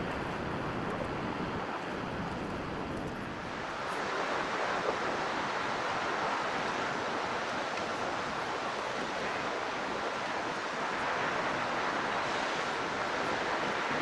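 Steady rushing noise with a faint, high, steady whine running through it; the rush grows a little louder about four seconds in.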